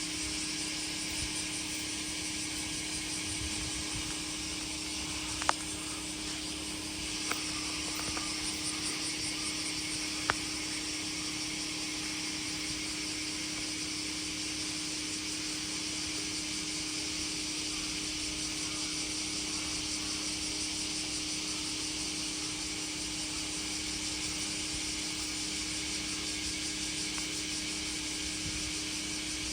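Steady outdoor ambience: an even high hiss over a constant low hum, with three sharp clicks in the first third.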